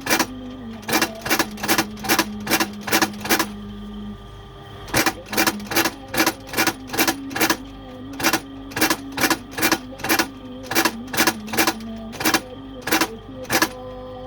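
A fast, even series of sharp knocks, about three a second, with a short pause about four seconds in, from work in a shoe repair shop. A recited voice holds long notes faintly underneath.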